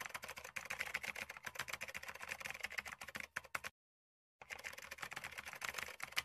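Rapid computer-keyboard typing, a fast run of sharp key clicks that stops briefly a little past halfway and then resumes, used as a sound effect as text appears.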